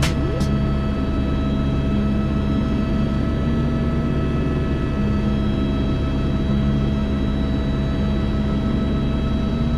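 Helicopter in flight: a steady turbine whine over a low engine drone, heard with slow background music whose low held notes change every second or so.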